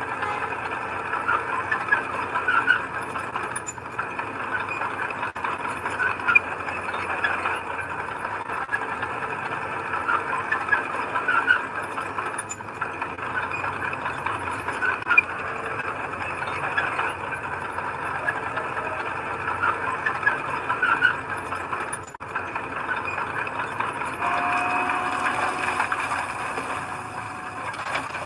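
Bulldozer at work: its diesel engine running steadily, with frequent short squeaks and a steady whine starting near the end.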